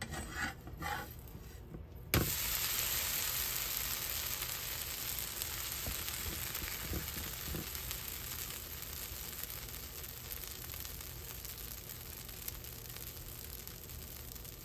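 Dosa sizzling on a hot tawa: a hiss that starts suddenly about two seconds in and slowly fades, after a few light knocks near the start.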